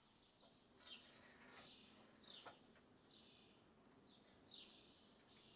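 Faint bird chirps: short, high, sweeping calls repeating about once a second over near silence.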